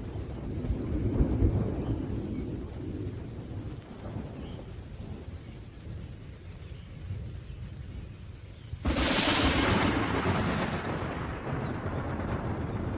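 Thunderstorm with rain falling throughout. Low thunder rumbles in the first couple of seconds; about nine seconds in, a sudden close thunderclap cracks, then rumbles away over the following few seconds.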